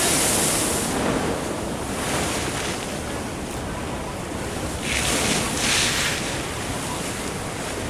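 Ocean waves washing and surging, with wind on the microphone; two louder hissing washes of water come about five and six seconds in.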